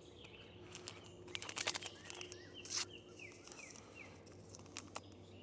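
A bird singing a quick run of about six short, falling chirps, over a few sharp clicks and a brief rustle of something being handled, such as a lid being unscrewed.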